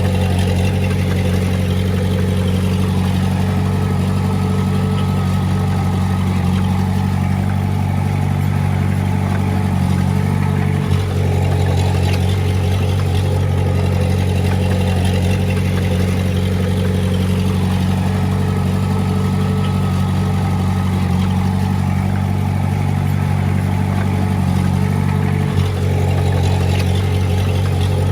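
Komatsu D20A bulldozer's diesel engine running steadily under load, its pitch swelling and easing slowly. The sound dips briefly twice, about fourteen seconds apart.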